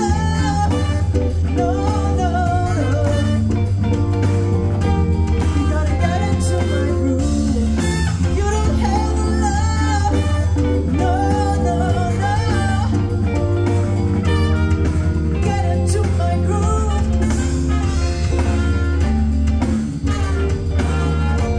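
A live band playing a song: a singer over guitar and drums, with a steady heavy bass.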